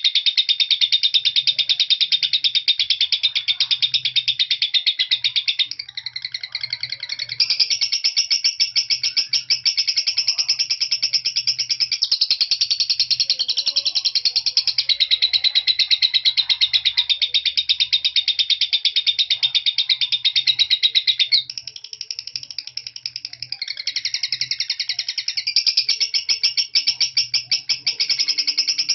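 Lovebird singing a long, unbroken run of fast, high-pitched chattering trills, the 'semi konslet' song style, changing its pattern briefly about six seconds in and again past twenty seconds.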